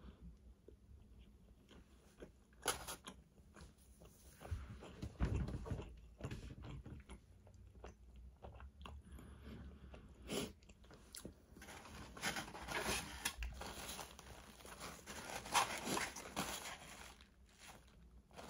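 Close-up mouth sounds of someone eating fried chicken fingers and fries: irregular bites, crunching and chewing, with louder stretches of crunching in the second half.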